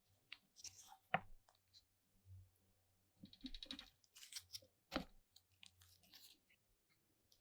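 Faint workbench handling sounds: scraping and rustling with two sharp clicks, about a second in and again near five seconds, and a short quick ticking rattle in between.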